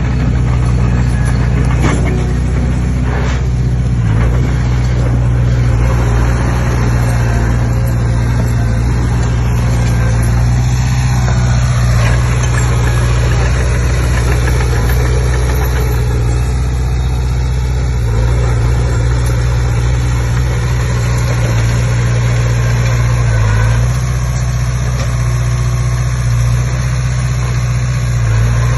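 Komatsu D20P bulldozer's diesel engine running steadily with a low drone, with a few brief clanks in the first few seconds.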